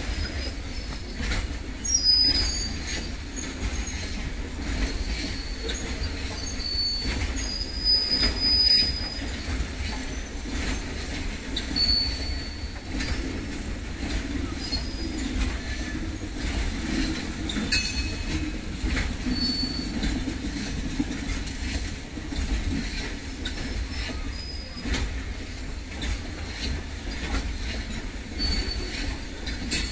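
Container freight train's wagons rolling past: a steady low rumble with irregular clicks of wheels over the rail joints. Short high-pitched wheel squeals come now and then, the loudest about eight seconds in.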